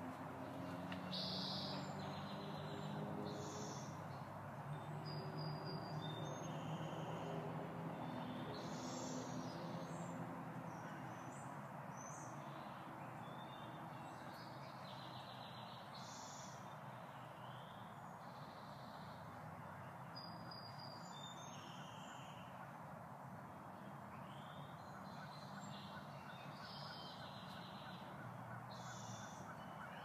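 Small birds chirping and calling on and off over a faint, steady hiss of outdoor background noise. A low hum with several steady pitches is heard for about the first ten seconds, then fades away.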